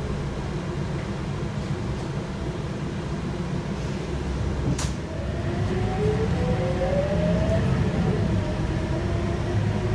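Scania K230UB bus's 5-cylinder DC9 diesel and ZF automatic gearbox heard from inside the bus: a steady low rumble, a sharp click a little before halfway, then the engine pitch rising and growing louder as the bus accelerates.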